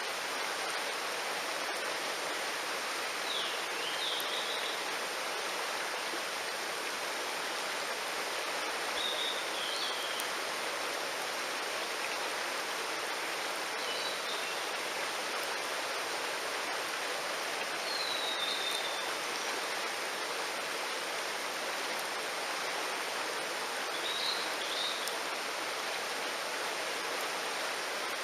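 Mountain stream rushing with a steady, even noise, with short high chirping calls breaking through every few seconds.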